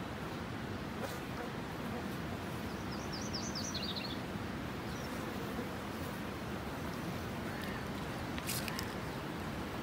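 Steady outdoor background noise, with a small bird chirping a quick run of high, falling notes about three seconds in. A couple of faint clicks come near the end.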